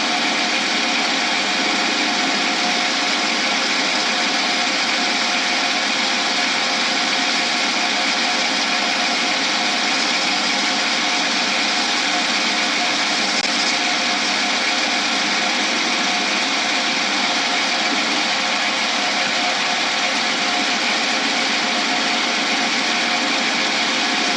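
A small power tool's motor runs steadily, with a few steady tones over an even hiss, as it cuts down an acrylic blank to match the diameter of the rest of the blank.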